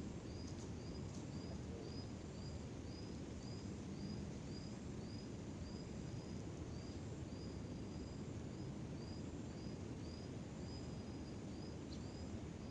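A bird calling with a short, high chirp repeated steadily about two times a second, over steady low outdoor background noise.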